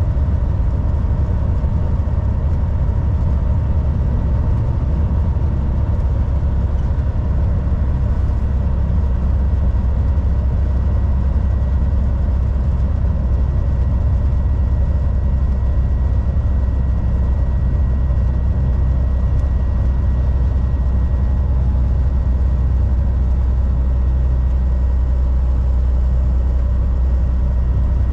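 Volvo VNL 760 semi truck's diesel engine running steadily while driving, mixed with road noise: an even low drone with a faint steady whine above it.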